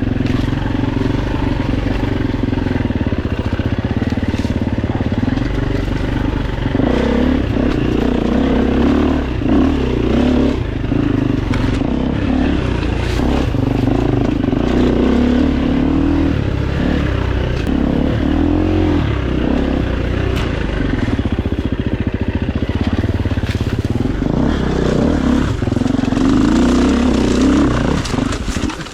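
Four-stroke single-cylinder dirt bike engine running under riding load, its pitch rising and falling with the throttle, with scattered knocks from the bike over rough ground. The engine sound drops off sharply just before the end.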